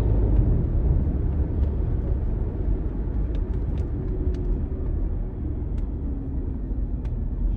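Car interior noise while driving: a steady low rumble of road and engine, with a faint engine tone that slowly drops in pitch in the middle, and a few faint clicks.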